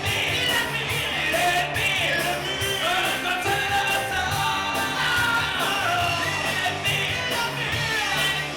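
Live rock band playing with a singer's voice over it.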